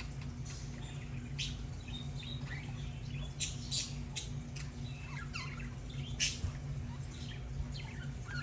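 Budgerigars chirping and chattering in quick short calls, clicks and brief squeaks, over a steady low hum.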